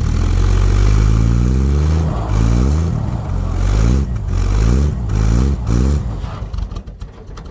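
Dodge D100 pickup's slant-six engine running, then revving up and down about five times in quick succession as the truck is rocked to break free of ice around its tyres; the engine sound falls away near the end.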